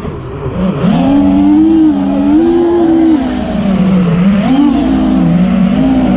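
Brushless motors and propellers of a 5-inch FPV quadcopter whining. The pitch drops sharply at the start, then rises and falls with the throttle.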